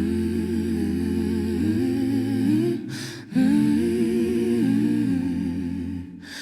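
A voice humming a slow, lullaby-like melody over a low held tone, in two long phrases, each followed by a short breath.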